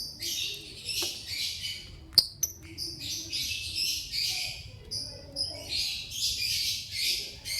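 Lovebird chirping in rapid, high-pitched bursts of chatter, one burst after another with short gaps. A single sharp click about two seconds in stands out as the loudest sound.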